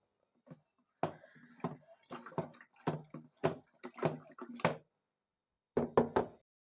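Household objects being handled, most likely kitchen things: a quick, irregular series of knocks and clatters, a pause, then three more knocks near the end.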